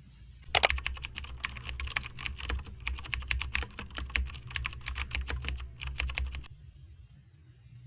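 Fast typing on a computer keyboard: a quick, irregular run of key clicks that starts about half a second in and stops about a second and a half before the end.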